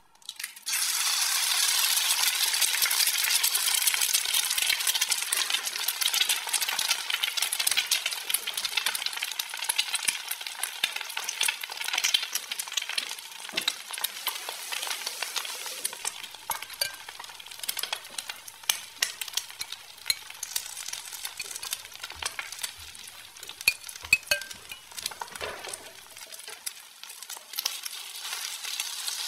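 Frying sizzle: a steady crackling hiss like food frying in a hot pan. It cuts in abruptly about a second in and eases somewhat after about 14 s, with a few light clicks later on.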